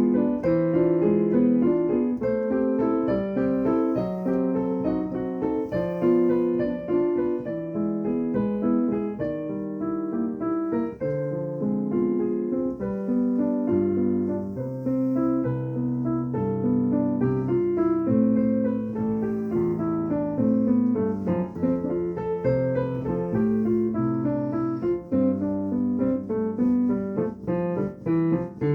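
Improvised solo piano music, a steady flow of notes with deeper bass notes coming in about halfway through.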